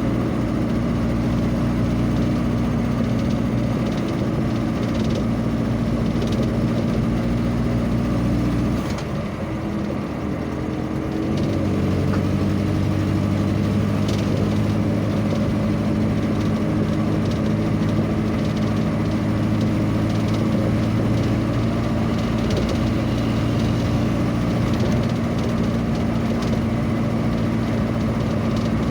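Vehicle engine running steadily while driving; about nine seconds in the engine note drops and eases off briefly, then climbs again as the vehicle picks up speed and settles into a steady hum.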